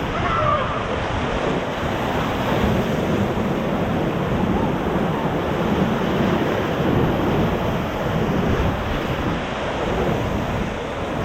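Whitewater rushing around and under a paddle raft as it runs a river rapid: a steady, dense water noise, with wind buffeting the microphone.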